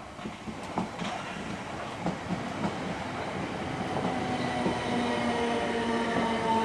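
Electric multiple-unit train on the move, its wheels clicking over rail joints, then a steady electric traction-motor whine with several tones that sets in about four seconds in and grows louder as the train comes closer.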